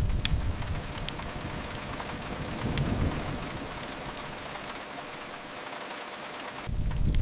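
Steady rain with a fireplace crackling, a few sharp pops standing out. A deep low rumble fades during the first second, swells briefly midway, and returns suddenly near the end.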